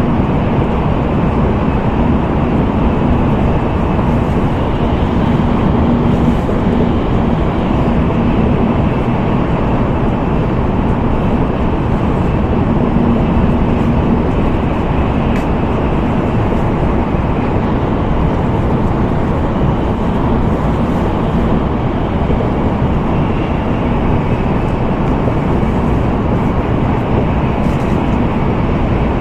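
Steady interior running noise of an N700A Tokaido Shinkansen travelling at speed: an even rumble, with a faint hum under it.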